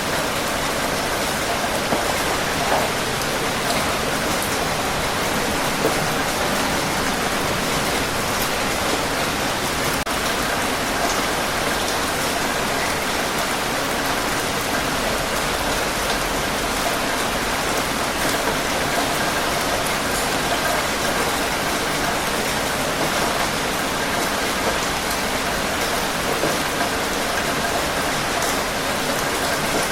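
Steady rain falling, an even hiss with scattered drop ticks and no let-up.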